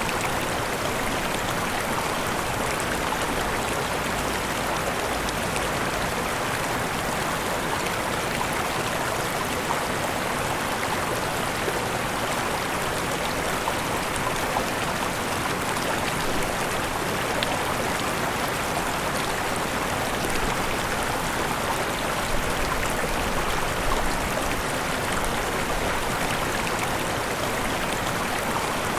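Waterfall rushing steadily, falling water making an even roar with faint splashes.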